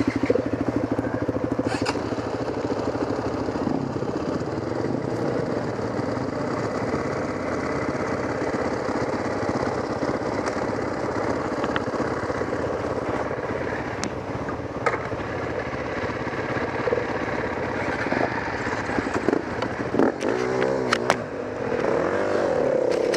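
Off-road trail motorcycle engine running at a steady idle, with the throttle blipped up and down a few times near the end.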